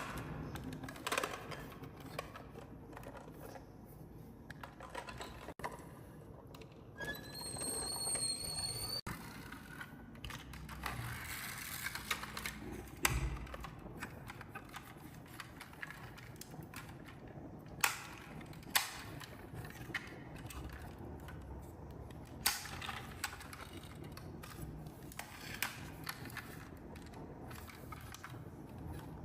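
Marbles rolling and clattering down a wooden marble run track, with scattered sharp clicks as they drop and knock against the wooden pieces. A brief high rising whistle-like tone sounds about seven seconds in.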